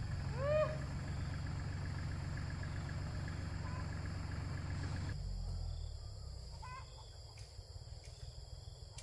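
Diesel tractor engine running steadily at low revs. About five seconds in, the sound abruptly thins and the engine carries on more faintly.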